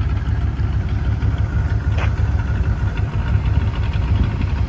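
1993 Ford SVT Lightning pickup's 5.8-litre V8 idling steadily and running pretty well after a tune-up and fuel-system overhaul.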